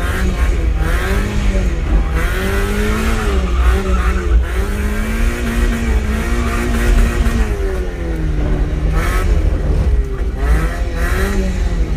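Mazda MX5 1.6's four-cylinder engine revving up and down over and over as the car is held in a drift, with tyres squealing over it.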